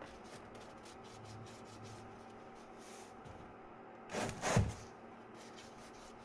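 Faint rubbing and handling noises as the oil filter housing is worked off the engine, with two short, loud scraping knocks close together about four seconds in.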